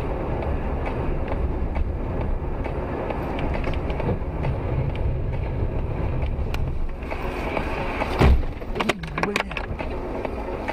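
Dashcam audio from inside a moving car: steady engine and tyre noise, with one loud sudden thump about eight seconds in, followed by a few sharp knocks.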